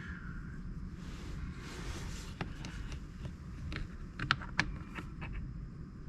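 Light clicks and taps of small chainsaw carburettor parts being handled on a workbench, scattered and irregular, a few sharper ones in the second half.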